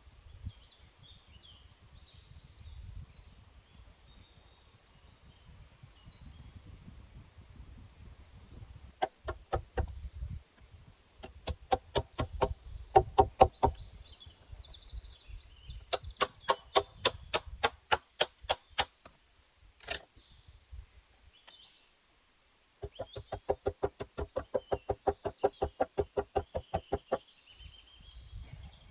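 Rapid wooden knocking, about five knocks a second, in several runs of a few seconds each with a single sharp knock between them, over faint bird chirps.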